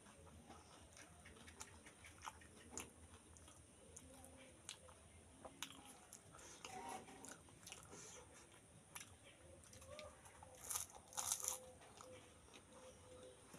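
Quiet crunching and chewing of crisp pani puri (fuchka) shells being eaten, with many small scattered clicks and two louder crunches about eleven seconds in.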